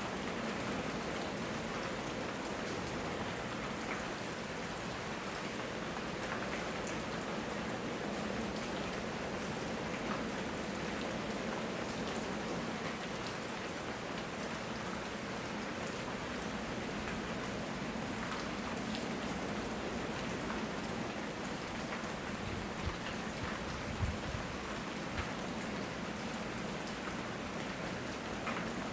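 Steady tropical rain falling, an even hiss with scattered ticks of individual drops on surfaces. A few soft low thumps come near the end.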